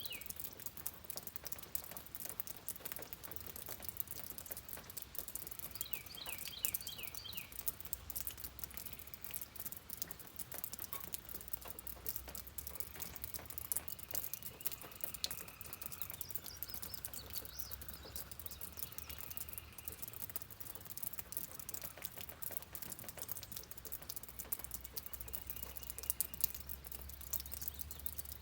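Steady patter of rain, with birds chirping: a quick run of short chirps about six seconds in and softer calls later on. A low hum sits underneath.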